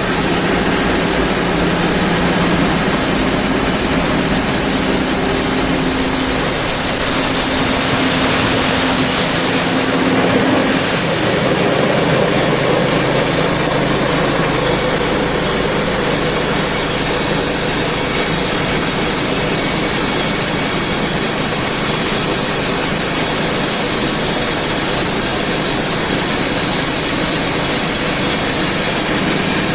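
Sawmill running: loud, steady machine noise of the mill's engine and saw at work. A low steady hum underneath drops out and the sound shifts about eleven seconds in.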